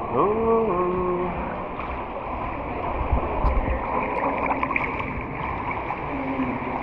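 Water splashing and sloshing as swimmers in life jackets paddle through a sea cave. A short, pitched voice call rises and then holds in the first second.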